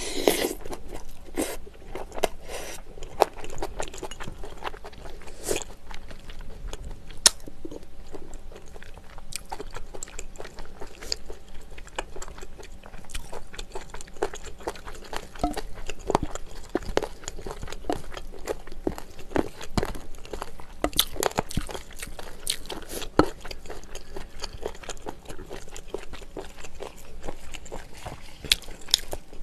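Close-miked chewing and biting of a meal of grilled pork, kimchi and stew, with crunches and many short clicks, among them a spoon and chopsticks knocking on bowls and a stone pot.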